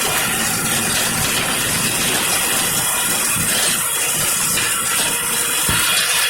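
A machine running with a steady, loud hiss.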